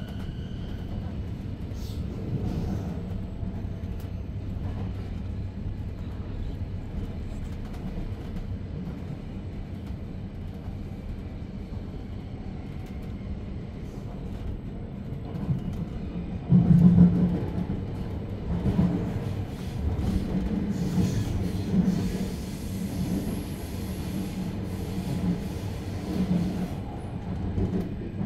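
Inside a coach of an SBB Re 450 double-deck commuter train running: a steady low rumble of wheels on rails. More than halfway in it grows louder, with a run of irregular bumps and rattles.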